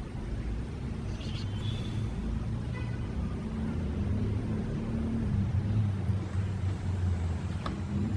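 Motor vehicle engine running, a low steady rumble that slowly grows louder, with a few faint high chirps early on.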